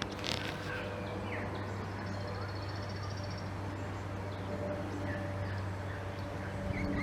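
A bird's high, rapid trill lasting about a second and a half, starting about two seconds in, with a few faint chirps, over a steady low hum.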